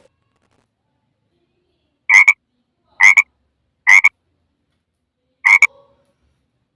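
Frog croaking: four short croaks, the first three about a second apart, the last after a longer pause.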